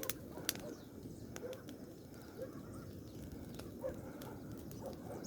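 Bonfire of brush and cut branches burning, with irregular sharp crackles and pops from the burning leaves and wood over a low steady rush.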